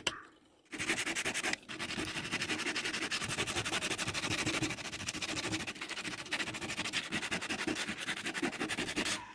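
Teak wood being rubbed with rapid back-and-forth rasping strokes, several a second, as in hand-sanding or filing a carving. It starts just under a second in, pauses briefly, then runs on steadily.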